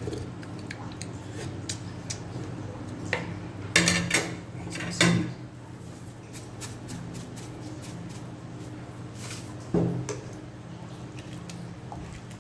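Kitchen clatter of pots and utensils: scattered clicks and clanks, with the loudest knocks about four and five seconds in and again near ten seconds, over a steady low hum.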